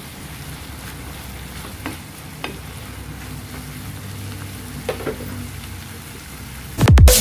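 Chicken strips and sliced chillies sizzling in a nonstick frying pan while a wooden spatula stirs them, with a few light clicks of the spatula against the pan. Loud electronic music cuts in abruptly near the end.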